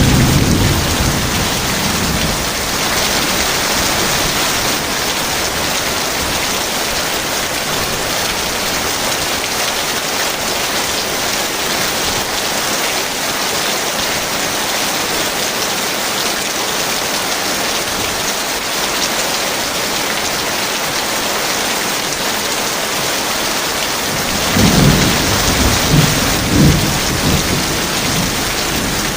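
Heavy rain falling steadily in a thunderstorm. Thunder rumbles at the very start and again about 25 seconds in, rolling in several low peaks over a couple of seconds.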